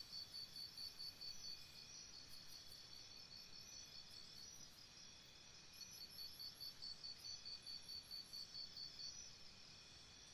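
Crickets chirping faintly in an even pulse of about five chirps a second, with other high insect trills layered over it.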